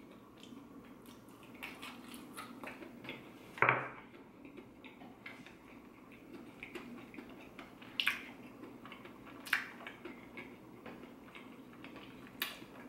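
A person chewing a mouthful of crunchy deep-fried fritter (a ball of instant noodles and crushed Doritos, floured and fried), with faint crunching and wet mouth sounds. A brief voice sound comes about four seconds in, and a few sharp clicks come later on.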